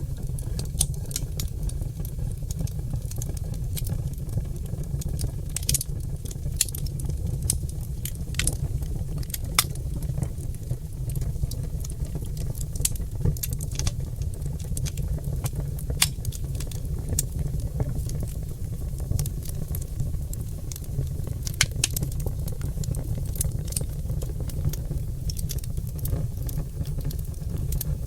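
Oak logs burning in a fireplace, crackling with irregular sharp pops every second or so over a steady low rumble.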